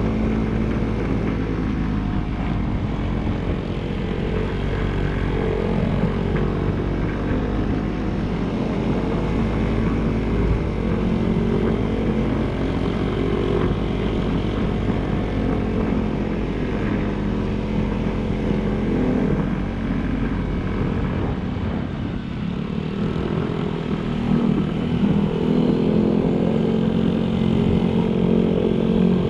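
Small motorcycle engine running under way, its note shifting with the throttle, with wind noise over it. The engine eases off about twenty seconds in and pulls harder again a few seconds later.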